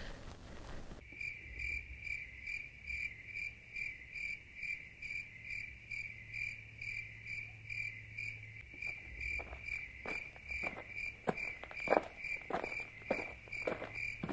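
A cricket chirping steadily, about two to three chirps a second. From about nine seconds in, a series of short, irregular knocks joins it.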